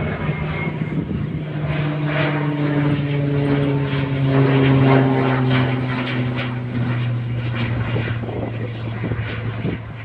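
Cessna 208 Caravan single-engine PT6A turboprop flying past, its propeller drone sliding slowly down in pitch as it goes by. It is loudest about halfway through and fades toward the end.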